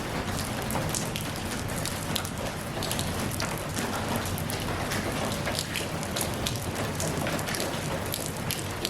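Steady rainfall, with many individual drops pattering on a surface over a continuous hiss.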